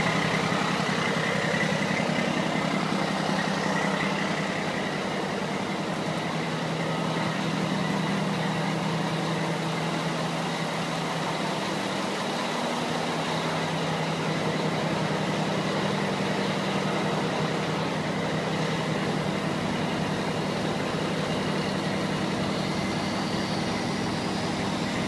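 Mack vacuum truck's diesel engine idling steadily.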